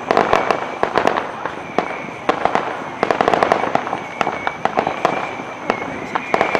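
Fireworks going off in a dense run of sharp cracks and crackling pops, with a thin high whistle coming and going through it.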